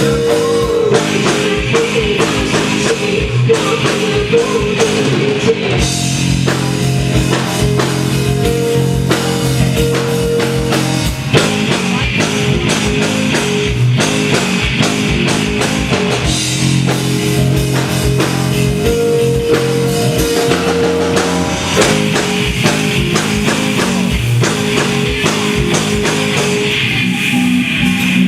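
Live rock band playing an instrumental passage: a drum kit keeping a steady busy beat over sustained low bass notes and chords, with no singing.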